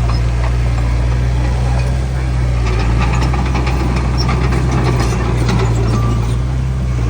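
Heavy diesel engine of earthmoving machinery running steadily with a deep drone, with scattered metallic clicks and rattles, most between about three and five seconds in.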